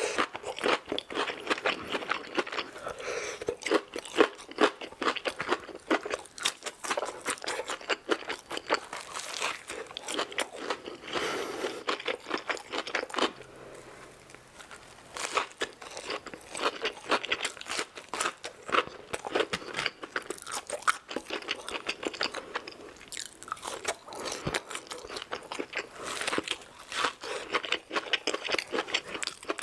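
Close-miked crunching and chewing of crispy fried chicken, a dense run of wet, crackly bites and chews, with a short quieter lull about halfway through.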